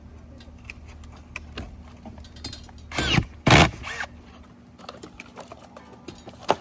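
Metal roofing work: scattered light clicks and taps over a steady low hum, then two short, loud bursts about three seconds in, half a second apart.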